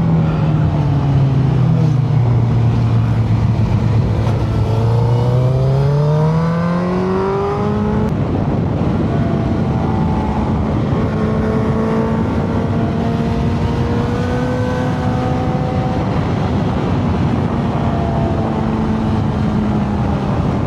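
Motorcycle engine running on the move over a steady rush of wind noise: the pitch drops in the first couple of seconds, climbs steadily as it accelerates from about four to eight seconds, then holds fairly steady.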